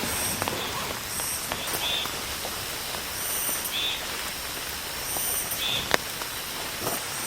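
Steady heavy rain, with sharp drops tapping now and then. Over it, a short high-pitched call repeats about every two seconds, four times in all.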